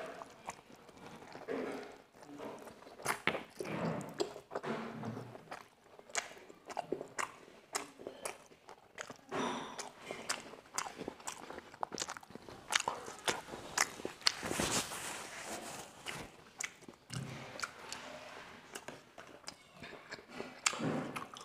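Chewing of a large momo dumpling, picked up close by a clip-on microphone, with many irregular sharp mouth clicks.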